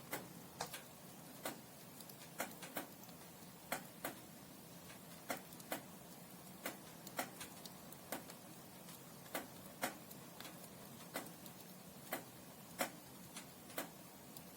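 Burning firewood crackling in a fireplace: irregular sharp pops, one or two a second, over a faint steady hiss.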